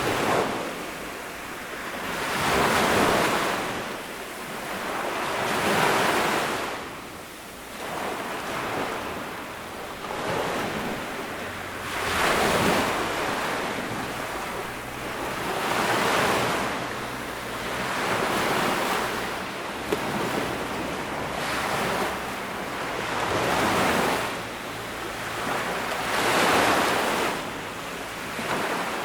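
Small ocean waves breaking and washing up on a sandy beach, one after another about every three to four seconds, each swelling and then drawing back.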